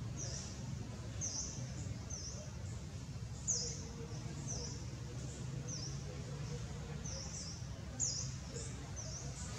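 A bird chirping repeatedly, short high chirps about once a second, two of them louder, about a third of the way in and near the end, over a steady low rumble.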